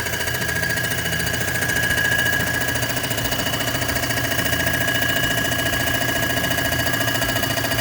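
Comec ACF200 surfacing machine taking a milling pass across an AMC 360 cylinder head: a steady machine hum with a high, even whine.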